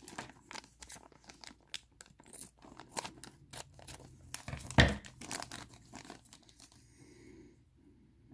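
Plastic bag crinkling and rustling in irregular sharp bursts as bagged plastic miniatures are handled and opened, with one louder knock about five seconds in; it fades out near the end.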